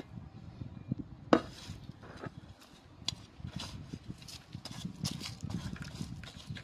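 Irregular scraping and clicking of a hand tool working kitchen food scraps in a container for compost fertilizer, with one sharp knock about a second and a half in.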